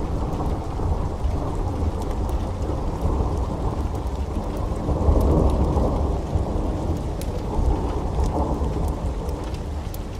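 Heavy rain pouring steadily under a low, continuous thunder rumble. The rumble swells to its loudest about halfway through, then eases off.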